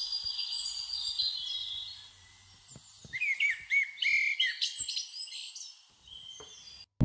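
Small birds singing, several high chirps and trills overlapping, with a louder run of quick rising-and-falling chirps about three seconds in that fades out near the end.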